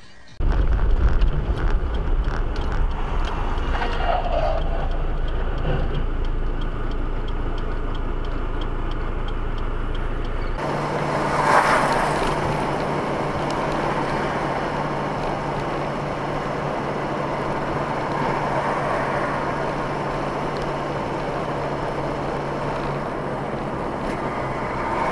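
Steady engine and road noise of a car on the move. The sound changes abruptly about ten seconds in, as another recording takes over, with a steady low hum from then on.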